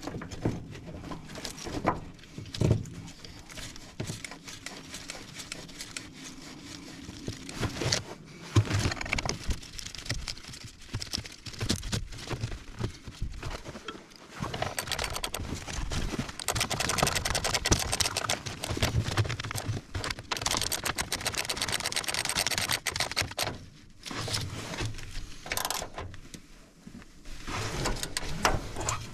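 Hands at work in an excavator's engine bay: irregular metal clinks, knocks and scrapes as a stop-motor bracket and cable are fitted, with a longer stretch of steady rustling and scraping in the middle.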